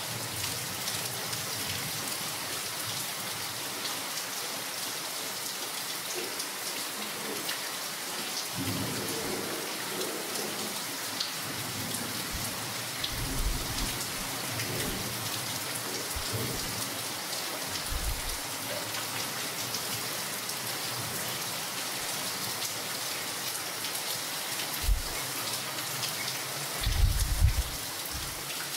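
Steady rain falling on forest foliage, an even hiss of drops. A few short low rumbles rise under it, the strongest near the end.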